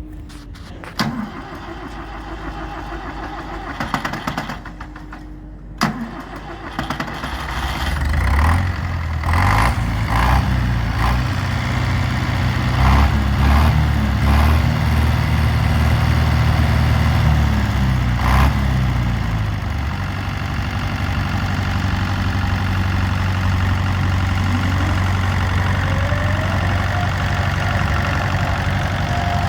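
David Brown 950 diesel tractor engine starting up after a few clicks and knocks, catching about seven seconds in. It runs at raised speed, then drops to a steady idle around twenty seconds in.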